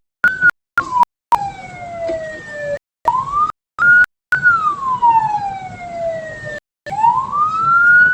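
Electronic wail siren of the military police escort vehicle leading a funeral procession, sweeping slowly up and down in long rising and falling glides. The sound drops out in several short silent gaps.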